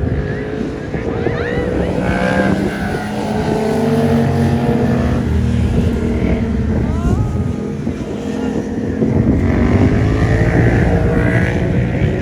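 A car engine running loudly close by, a steady low drone that swells again about nine seconds in.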